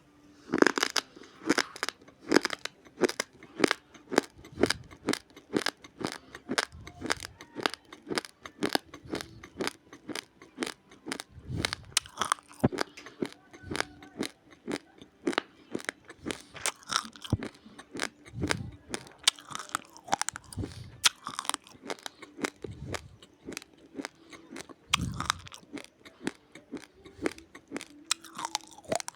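Close-up crunching of raw, uncooked rice grains being chewed, a fast run of sharp crisp crunches with an occasional soft low thump.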